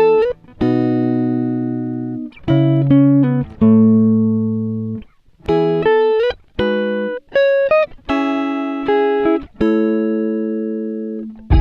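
Background music: a plucked-string instrument plays a slow melody of single notes and chords. Each note rings and fades before the next is struck.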